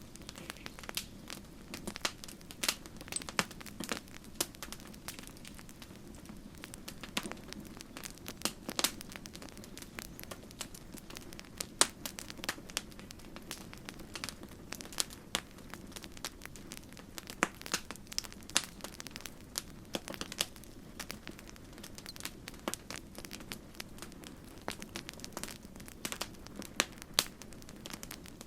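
Campfire crackling: a steady run of irregular sharp pops and snaps over a low, even hiss of burning.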